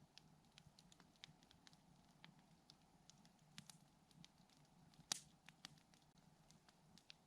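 Campfire crackling softly, with scattered small pops and ticks and one louder pop about five seconds in.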